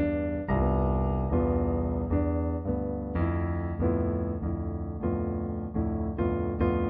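Background piano music: slow improvised chords struck one after another, each left to ring.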